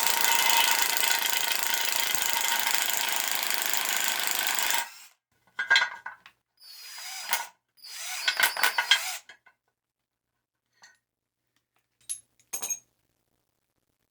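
A power tool runs steadily for about five seconds and stops abruptly, followed by scattered metal scrapes and clinks, some ringing briefly, as compressor pump parts are worked apart.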